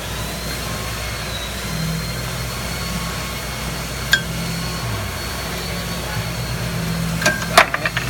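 A vehicle engine idling steadily in a workshop, with a single sharp metal tap partway through and a quick run of tool clinks near the end.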